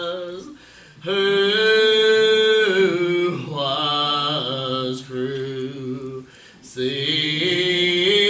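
Slow gospel hymn singing, with long held notes and short breaks between phrases, about a second in and again about six and a half seconds in.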